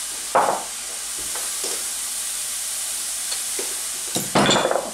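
Tofu, garlic and ginger frying in oil in a pan, a steady sizzle. A short burst of handling noise comes about half a second in, and a longer, louder one near the end.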